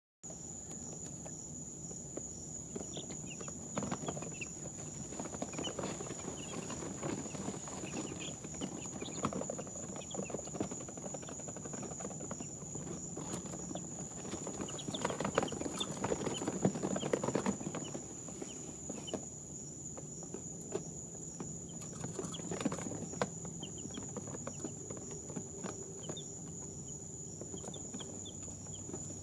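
Two-day-old domestic chicks peeping: scattered short, high chirps, with rustling and scratching, busiest about halfway through. A steady high-pitched tone runs underneath.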